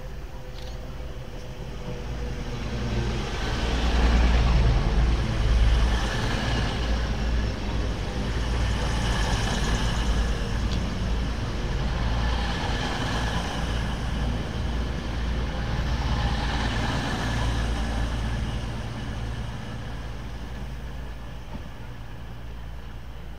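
Diesel train passing through the station, its engine rumble and wheel noise loud. It swells about four seconds in, holds for some fifteen seconds and eases off near the end.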